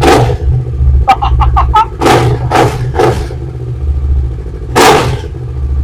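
Kawasaki Ninja 650's parallel-twin engine with an aftermarket exhaust, idling and being blipped hard on the throttle about five times: a rev right at the start, three quick ones about two to three seconds in, and another near the end. The exhaust note is unusual for this bike, not the stock sound.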